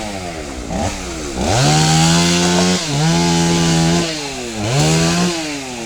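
Two-stroke chainsaw revved up to full throttle and held there for a couple of seconds with a brief dip, then let back toward idle, revved briefly once more and dropped back.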